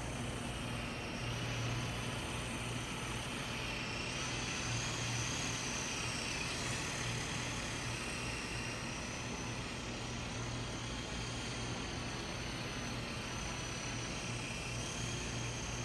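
Small electric RC toy helicopter in flight, its motors whining and rotors humming steadily. The whine rises in pitch about four seconds in and then wavers up and down with the throttle.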